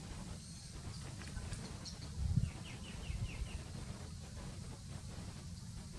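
A bird calling a quick run of about five short, falling chirps, over a steady low rumble with a brief thump just before the chirps.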